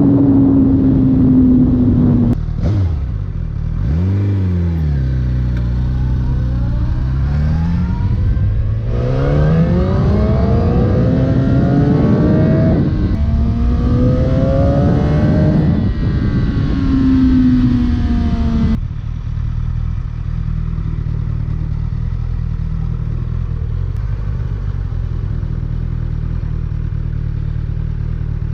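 Suzuki GSX-R1000 K7 inline-four on its stock factory exhaust, revving up and down several times with rising and falling pitch, then dropping suddenly to a steady low idle about two-thirds of the way through.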